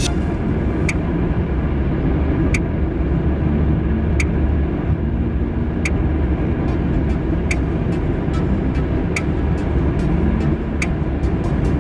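Car being driven, heard from inside the cabin: steady low road and engine noise, with a sharp click repeating about every second and a half.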